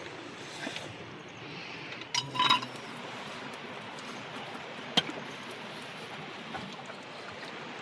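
Steady heavy rain falling, with a brief ringing clink about two seconds in and a single sharp knock about five seconds in.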